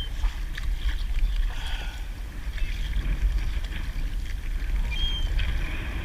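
Steady low rumble and hiss of wind and water around a kayak at sea, with two short high chirps about five seconds apart.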